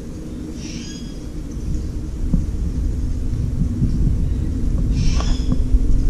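Birds giving two short high calls, one about half a second in and another about five seconds in, over a loud low rumble that is the loudest sound throughout.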